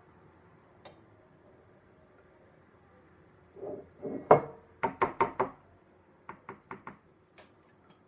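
A series of hard knocks and taps: a cluster of loud knocks about halfway through, the loudest among them sharp, then a quick run of five lighter taps and a few faint ones.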